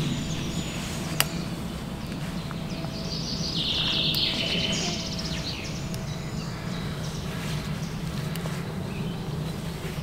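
A songbird chirping a quick trill for a couple of seconds in the middle, over a steady low background rumble. There is a single sharp click just after the start.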